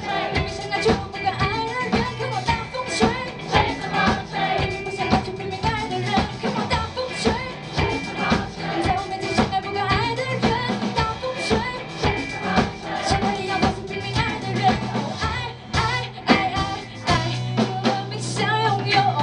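Live band playing a pop-rock passage without sung lyrics: a drum kit keeps a steady beat under bass and melody instruments, with the bass holding long low notes in the second half.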